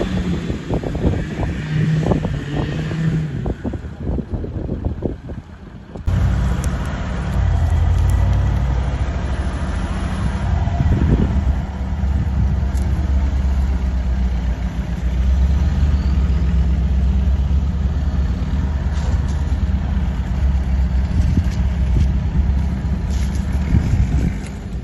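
A 4x4's engine running steadily under load, heard close up. In the first few seconds there is gusty buffeting, and about six seconds in the sound changes abruptly.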